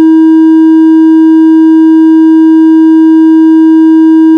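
Loud steady test tone: a single pitch held without change, with faint overtones.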